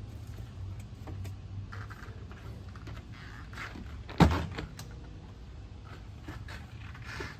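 Car door of a 1969 Jaguar E-Type shutting with a single loud thump about four seconds in, amid light clicks and rustling. The engine is not yet running.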